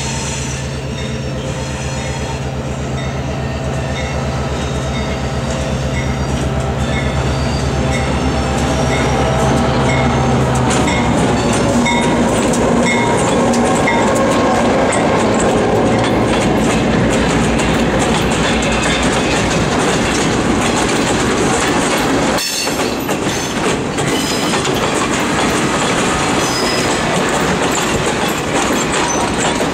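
EMD GP9 diesel locomotive, with its 16-cylinder two-stroke 567 engine, running as it approaches slowly and passes close by; its engine note drops about a third of the way in. Freight and passenger cars then roll past, their wheels clacking over rail joints and squealing a little. A high ting repeats about twice a second while the locomotive approaches, and there is one sharp bang about three-quarters of the way in.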